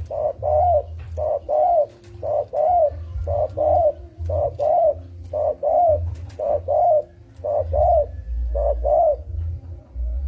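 Spotted dove cooing: paired coos repeated about once a second, nine times, over a low steady rumble.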